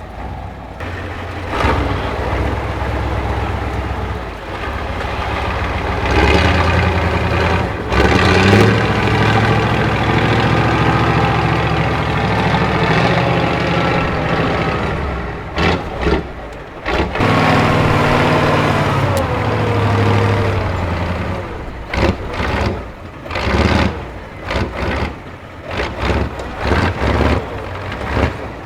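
Heavy off-road trial truck's engine working hard under load, its pitch rising and falling with the throttle. It eases off briefly about halfway through. Near the end it drops into short, choppy bursts of throttle.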